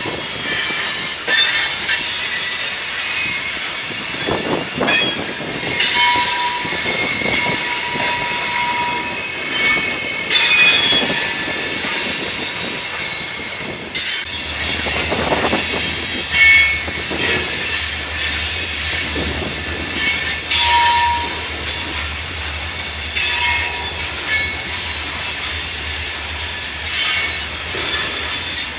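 Freight train of covered grain hopper cars rolling through a curve, the wheel flanges squealing against the rail in high steady tones that come and go, with wheels clicking over rail joints.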